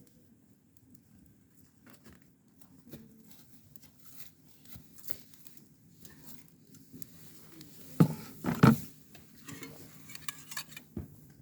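Scattered light clicks and knocks of objects being handled, with a louder clatter of a few knocks about eight seconds in.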